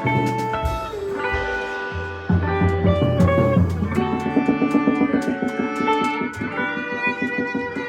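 Live band playing an instrumental passage, with guitar over drum kit and bass. About halfway through, a fast run of rapidly repeated notes comes in.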